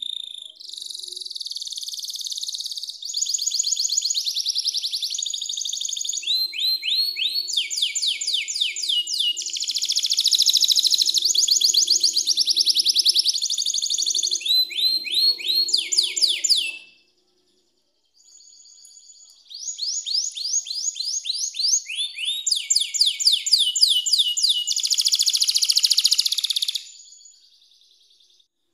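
Canary singing a long song of rapid trills, fast runs of repeated notes that switch to a new pattern every second or two. The song breaks off for about two seconds just past the middle, then resumes with more trills.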